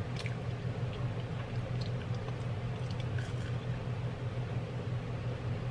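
Someone chewing crispy air-fried french fries, with a few faint crunches, over a steady low hum.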